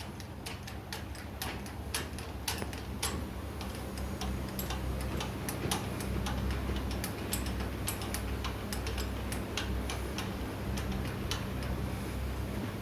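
Irregular light clicks or taps, a few a second, over a steady low hum.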